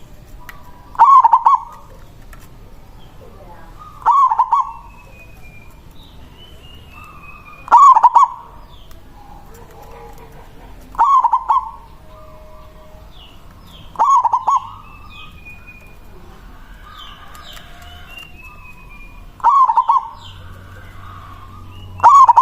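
Zebra dove (perkutut) cooing its song: seven short, loud cooing phrases about three seconds apart, with a longer pause in the middle. Faint chirps of other small birds are heard between the phrases.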